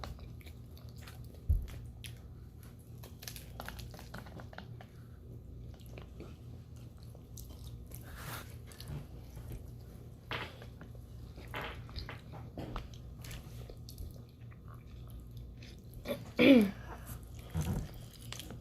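Close-miked chewing and biting of food, with scattered small crunching and mouth clicks. A low thump comes about a second and a half in, and a brief voice sound near the end is the loudest moment.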